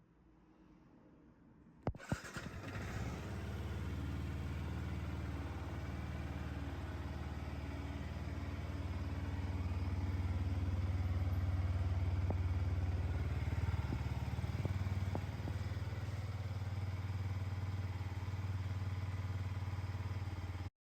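Yamaha YZF-R125's single-cylinder four-stroke engine starting up about two seconds in and then idling steadily, a little louder through the middle. The sound cuts off suddenly near the end.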